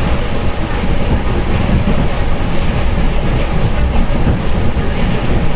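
Electric commuter train running at speed, a steady rumble of the carriage with the clatter of its wheels on the rails.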